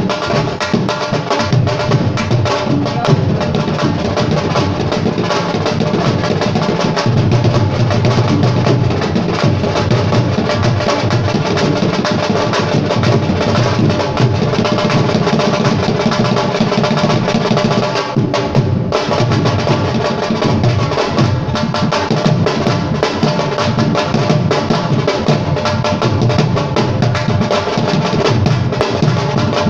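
Live percussion-led music: fast, continuous drumming over a held melodic drone, with a brief break about two-thirds of the way through.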